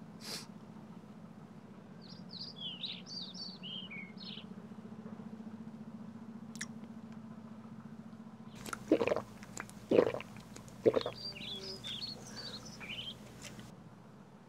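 Small birds chirping in two short runs of quick, jumpy notes over a steady low hum; about nine to eleven seconds in, three loud short noises break in.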